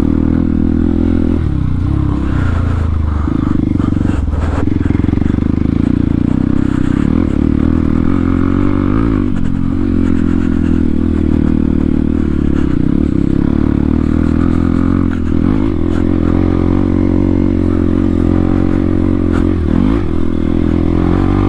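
Motorcycle engine with an aftermarket full-system exhaust and its dB killer removed, running steadily under way on a dirt trail, with small rises and dips in revs. A few brief clatters.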